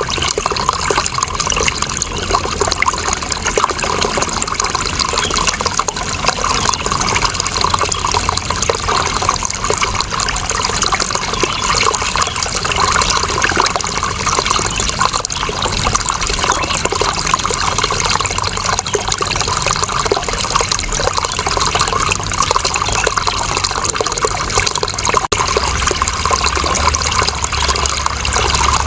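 Running water flowing steadily, an even rushing splash, with a brief dip in level about 25 seconds in.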